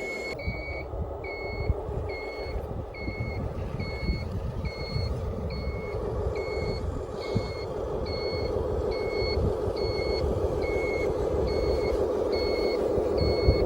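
RC model dump truck's reversing alarm beeping steadily, a little over once a second, over the steady drone of the truck's motor and sound module, which grows slightly louder.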